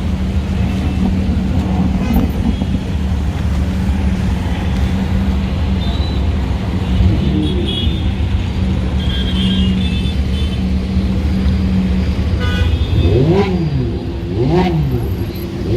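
Supercar engines idling with a deep, steady drone, then a few sharp throttle blips near the end, each revving up and dropping straight back.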